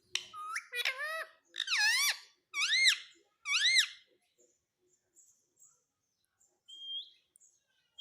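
Pet rose-ringed parakeet calling: five loud, arching screeches in quick succession, each rising then falling, followed after a pause by a short rising chirp near the end.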